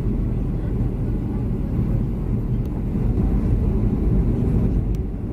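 Steady low rumble of cabin noise inside a Boeing 737-300 airliner, from its CFM56-3 engines and airflow.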